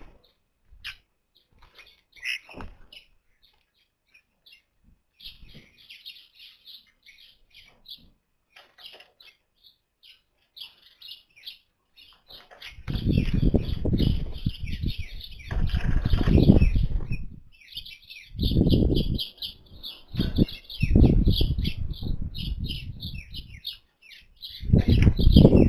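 Birds chirping rapidly and almost without pause, with loud, low rumbling bursts coming and going from about halfway in.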